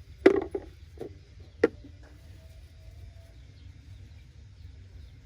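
Three sharp knocks or clatters, the first and loudest about a quarter second in with a short rattling tail, then two lighter ones about a second and a second and a half in, over a low steady hum.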